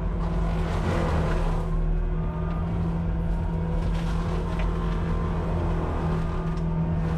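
Cat 259D compact track loader running a forestry mulcher, its engine held at steady high revs with a constant low hum, and passing stretches of crackling noise over it.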